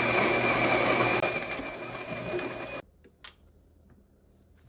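Tuni G1 conical burr grinder's motor grinding coffee beans with a steady whine, which stops suddenly about three seconds in. A couple of faint clicks follow.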